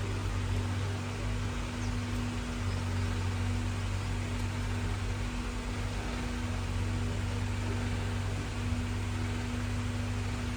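An engine running steadily, a constant low hum with a hiss over it.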